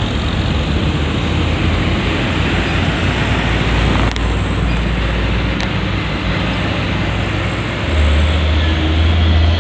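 Heavy highway traffic made up largely of big trucks: a steady wash of engine and tyre noise over a deep engine rumble, which swells near the end as a heavy vehicle passes close.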